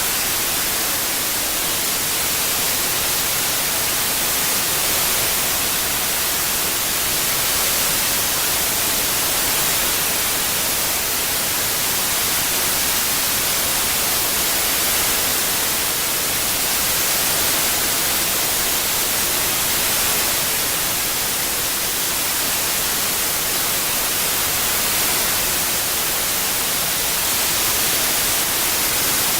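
Continuous synthetic white noise, an even hiss across all pitches with slight slow swells in level, mixed as an 8D surround track for tinnitus masking.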